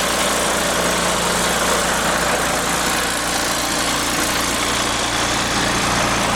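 International S1900 rollback truck's DT-466 inline-six diesel engine idling steadily.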